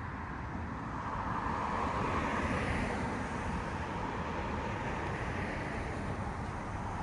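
Vehicle noise on a street: a steady rush that swells a little a second or two in.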